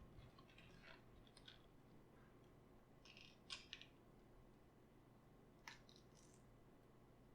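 Faint, scattered crisp crunches and crackles of raw cabbage being worked by hand or knife, with a louder cluster a little past the middle.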